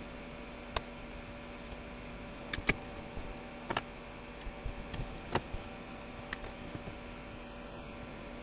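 Scattered small clicks and taps of hand work on a hair dryer's casing and wiring, loudest about two and a half seconds and five seconds in, over a steady background hum.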